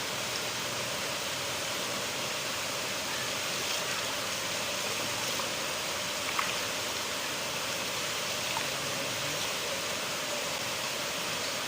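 River water flowing: a steady, even rushing with a brief faint click a little past halfway.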